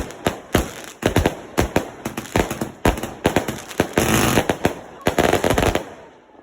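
Fireworks going off in rapid succession: a string of sharp bangs, several a second, thickening into a dense crackle near the end before stopping abruptly.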